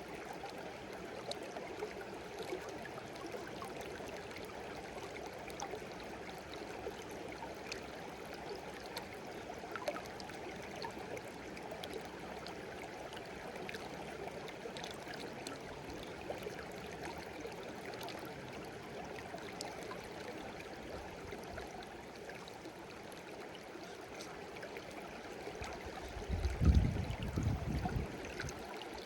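Shallow stream babbling steadily over stones, with a continuous splashing hiss and small droplet ticks. Near the end a burst of low rumbling lasts about two seconds.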